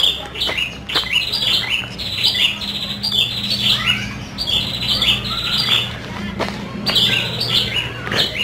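Many birds chirping busily, short calls overlapping one after another with no pause.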